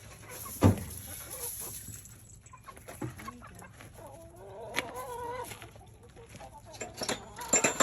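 Hens clucking in a coop, with a wavering call in the middle. A single sharp knock comes about two-thirds of a second in and is the loudest sound, and a cluster of taps and clicks follows near the end.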